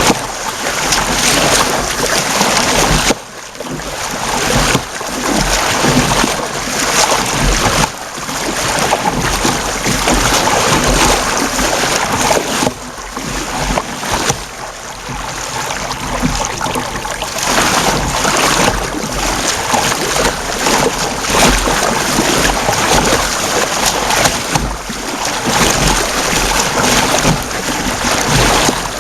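Water splashing and sloshing around a kayak and its paddle on the sea, mixed with wind buffeting the microphone; the noise swells and dips unevenly.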